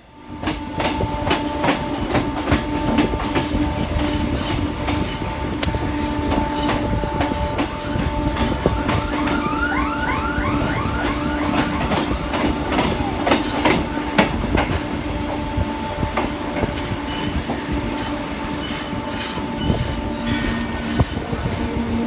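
Suburban electric local train running, its wheels clicking over rail joints over a steady rumble and hum.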